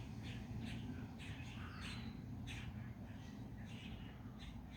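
Birds chirping in the background: a string of short, high calls a few times a second, over a steady low rumble.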